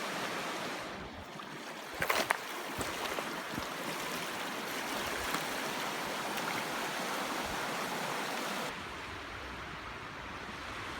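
River water running steadily, with a few sharp clicks and knocks about two seconds in.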